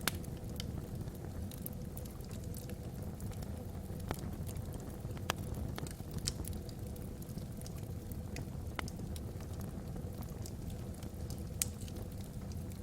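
Log fire burning in a fireplace: a steady low rumble with irregular sharp crackles and pops, about one every second or two.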